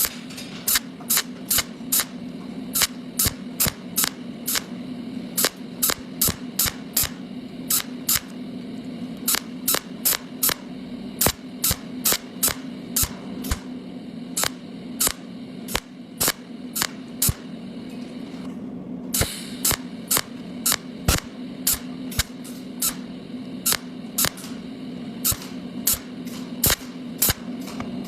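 TIG welding arc on thin sheet metal: a steady hum with sharp, evenly spaced clicks about two to three times a second.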